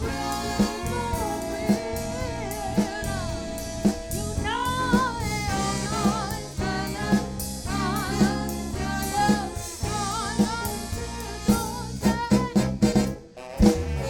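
Live band with drum kit, bass and keyboards playing a soul/funk groove, with wordless vocal runs with vibrato over it. Near the end a quick drum fill sets up the next song.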